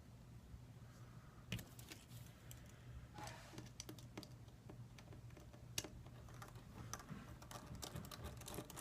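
Faint, irregular small clicks and taps of a screwdriver and tiny screws on a smartphone's plastic frame as the screws are taken out, starting about a second and a half in and coming more often towards the end, over a low steady hum.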